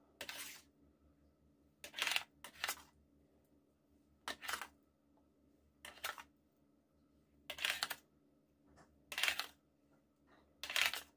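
A spoon scooping marinade from a bowl, about eight short scraping, clinking strokes spaced a second or two apart.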